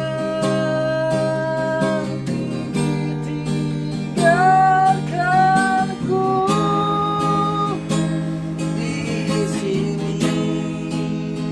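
Music: a voice singing long held notes that slide up into pitch, over steadily plucked string accompaniment.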